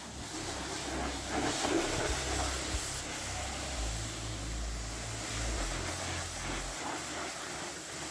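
Pressure washer spraying water: a steady hiss with a low motor hum underneath that stops near the end while the hiss goes on.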